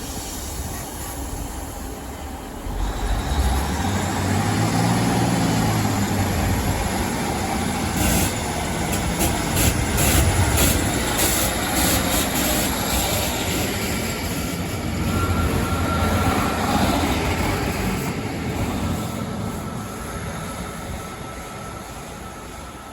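Train running on rails, growing louder about three seconds in with a rising engine note. A run of sharp clicks about halfway through, a brief high squeal from the wheels after that, and the sound fades away near the end.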